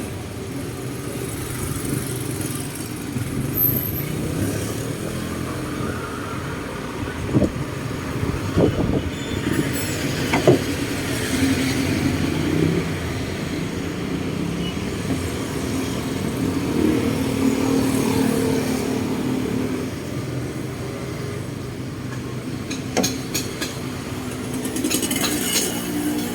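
Tractor engine running steadily, driving a rotary tiller, with a few sharp knocks and clanks along the way.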